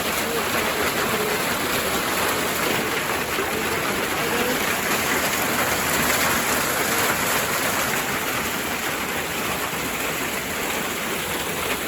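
Hailstorm: hailstones and rain pelting down steadily onto the ground and surfaces in a dense, even hiss.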